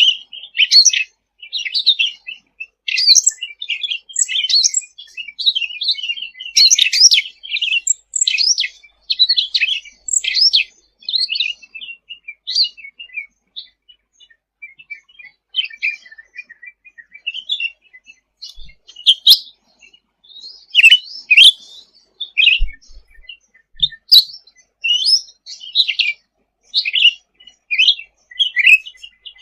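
A cucak ranting songbird singing energetically: a rapid run of high chirps, slurred whistles and short trills, thinning out a little before the middle and picking up again. A few sharp clicks sound past the middle.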